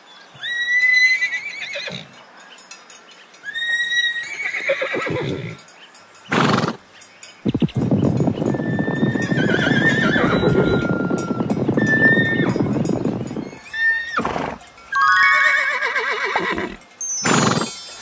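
Horses whinnying: several neighs, each a high call that falls in pitch and trails off. A long rough, noisy stretch comes in the middle.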